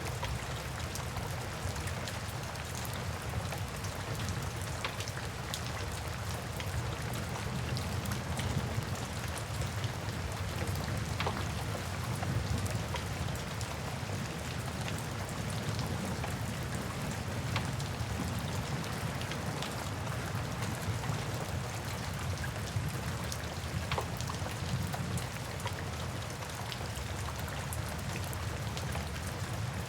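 Steady rain ambience mixed with a wood fire crackling, with scattered small sharp pops over the even hiss.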